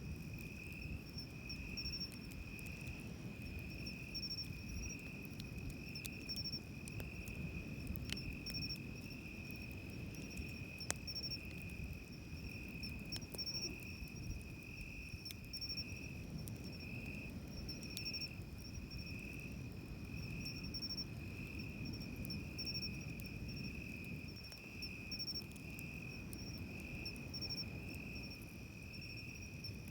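Insects chirping in a steady pulsing trill, over the low rumble of waves breaking, with a few sharp crackles from a campfire.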